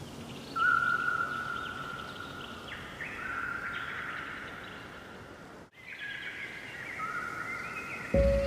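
Several birds singing and chirping over a faint outdoor hiss, with short high phrases overlapping one another. The sound cuts out for a moment about two-thirds of the way through, and soft low music notes come in right at the end.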